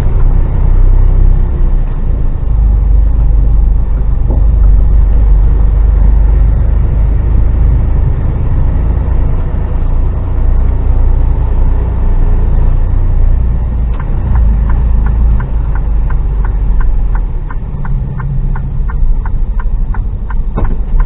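HGV truck's diesel engine and road noise droning steadily inside the cab while driving. About two-thirds of the way in, a regular clicking of about three clicks a second starts and runs for several seconds, stopping shortly before the end.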